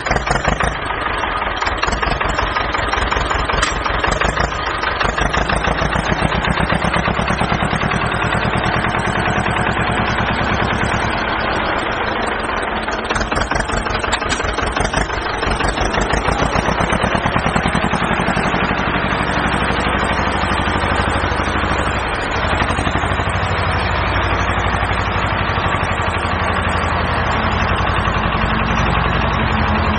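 A mini tractor's small engine running steadily, with a rapid, even firing beat.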